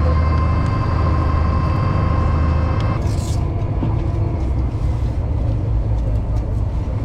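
Cruise boat's engines running with a steady low drone; a higher steady hum in the mix drops out about three seconds in.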